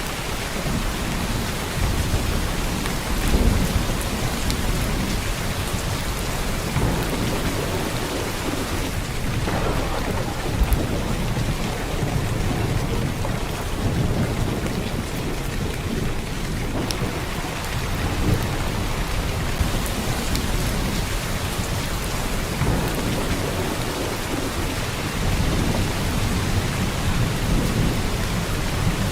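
Heavy downpour of rain, a steady dense hiss of water, with a low rumble underneath that swells and fades every few seconds.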